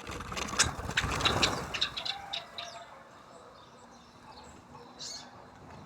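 A flurry of birds' wings flapping, loudest in the first two seconds, then quieter, with a short high call about five seconds in.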